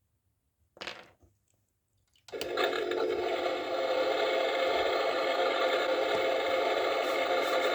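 A toy washing machine's small electric motor starts abruptly about two seconds in and runs with a steady whir, after a short knock about a second in.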